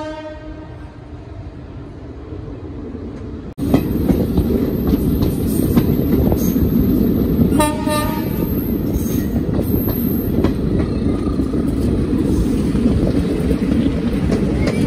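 Indian Railways passenger coach rolling along the track, heard from an open coach door: a quiet, fading stretch, then a loud steady rumble of wheels on rails that begins suddenly about four seconds in. A short train horn toot sounds about halfway through.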